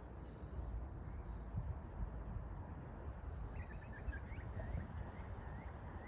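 A bird chirping faintly, a run of short rising chirps a few times a second, starting about halfway through, over a steady low rumble.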